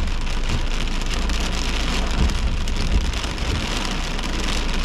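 Steady hiss of heavy storm rain on the car, with short low thumps now and then.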